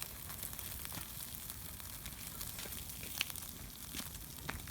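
Meat sizzling on a wood-fired grill, a steady hiss with scattered sharp pops and crackles from the burning firewood.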